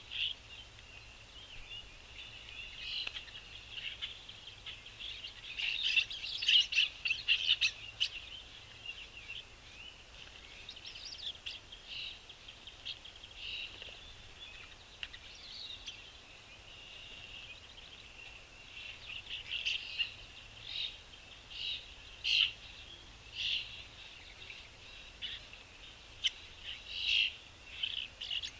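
Small songbirds chirping, with a dense flurry of calls about six seconds in and then single short chirps every second or so near the end.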